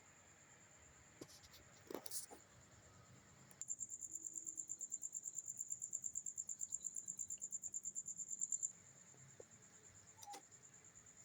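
Cricket chirping in a high, steady trill, which swells into a louder pulsing trill of about eight pulses a second for roughly five seconds before dropping back. A few faint clicks can be heard.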